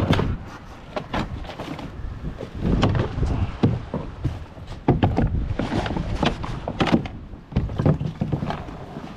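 Wind buffeting the microphone, with irregular knocks and thumps on a plastic kayak's hull and gear.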